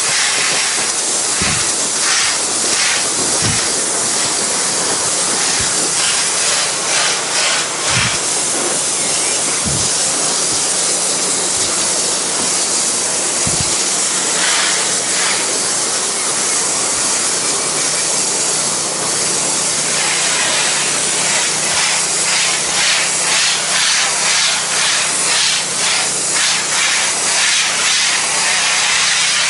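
Pressure washer spraying water through the low-pressure black tip onto wood decking: a loud, steady hiss of the spray, with a low steady hum underneath.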